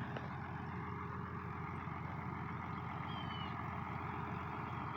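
International 886 farm tractor's diesel engine running steadily at idle, with a low, even drone while the round baler is stopped for a twine check.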